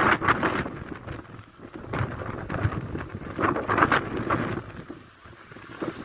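Strong wind blowing in gusts through trees and buffeting the microphone, rising and falling in surges, with the loudest gusts at the start and about four seconds in.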